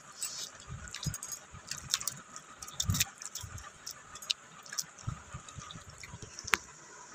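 A person eating a mouthful of noodles close to the phone's microphone: soft chewing and mouth clicks, with low handling bumps and a sharp click near the end as the phone is moved.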